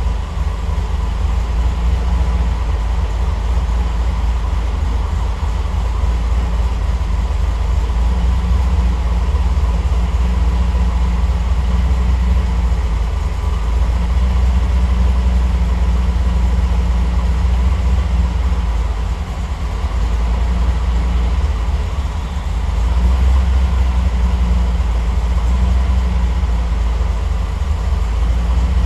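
Triumph TR8's Rover 3.5-litre V8 idling while still warming up from a cold start, on Megasquirt fuel injection whose warm-up enrichment is being tuned. The idle rises and falls slightly, dipping briefly about twenty seconds in and then picking back up.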